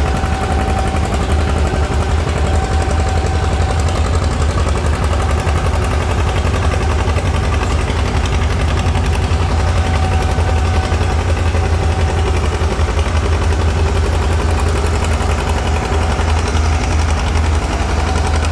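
Antique farm tractor engine running hard under load as it pulls the weight sled, loud and steady with rapid, even exhaust pulses.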